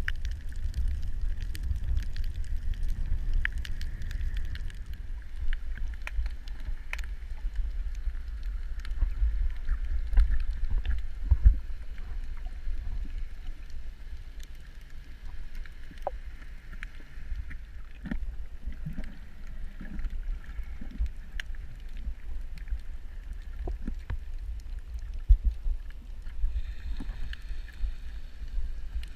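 Underwater ambience picked up by a camera on a coral reef: a steady low rumble of water with scattered faint clicks and crackles.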